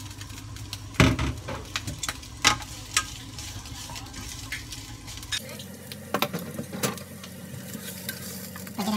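Sliced onion rings sizzling as they fry in hot oil in a nonstick frying pan, being stirred with a spatula. Several sharp knocks and scrapes against the pan punctuate the steady sizzle, the loudest about a second in.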